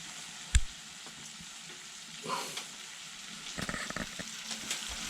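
Bison, mushrooms and kale sizzling in butter in a pan on a wood-burning stove, a steady sizzle. A sharp knock about half a second in, and a run of small clicks and scrapes of a utensil against the pan around four seconds in.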